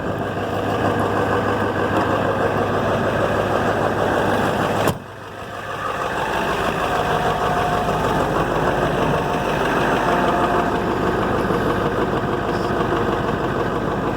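Ford Powerstroke 7.3-litre V8 turbo-diesel idling steadily soon after a cold start in freezing weather. About five seconds in there is a sharp click and the sound briefly drops away before coming back.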